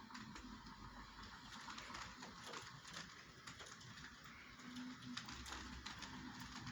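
Irregular light ticks of raindrops hitting a hard surface during a thunderstorm, over a faint hiss of rain.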